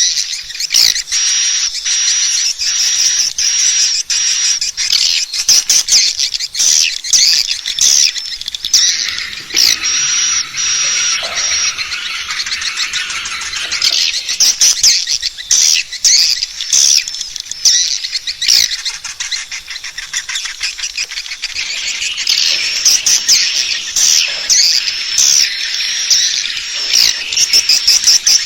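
Swiftlet lure call, a recording of many swiftlets twittering, played to draw swiftlets into a nesting house to roost. It holds dense high chirps and short trills over a rapid, irregular clicking.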